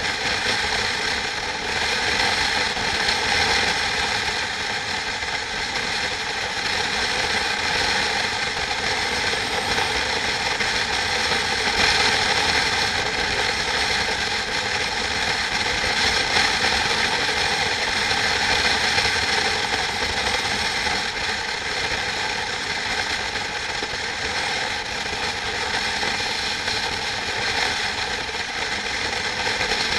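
A machine running steadily, its noise holding a cluster of fixed tones without letting up.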